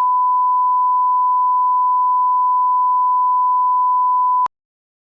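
A single steady electronic beep tone, one pure unwavering pitch held loud for several seconds, cutting off suddenly near the end.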